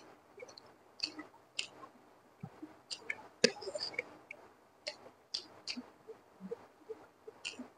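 Close-miked eating of fried rice by hand: chewing with wet mouth clicks and lip smacks, irregular and spaced a fraction of a second apart, the loudest about three and a half seconds in.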